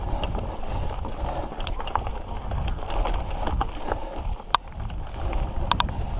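Mountain bike rolling over rocky dirt trail: steady rumble of wind and tyre noise, with sharp clicks and knocks from rocks and the rattling bike scattered throughout, one louder knock about four and a half seconds in.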